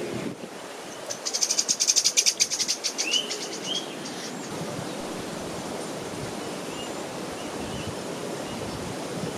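A small bird singing: a fast, dry, high trill of about ten notes a second lasting about two seconds, then two short rising chirps. A steady outdoor hiss runs underneath.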